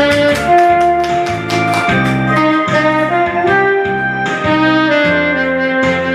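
Saxophone playing the slow melody of a Korean ballad in held notes, over an accompaniment of bass, keyboard and drums keeping a steady beat.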